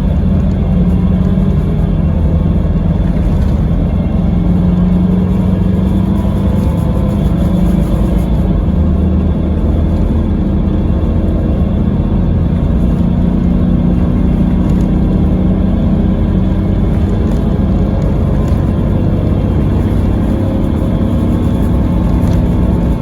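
Scania K320 coach's diesel engine, driving through its ZF Ecomat automatic gearbox, running steadily under way, its note rising and falling gently with speed.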